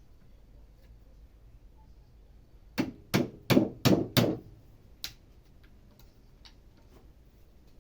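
A quick run of five sharp blows, about three a second, then one more blow and a couple of fainter knocks, like striking with a hammer during work on a wooden stump.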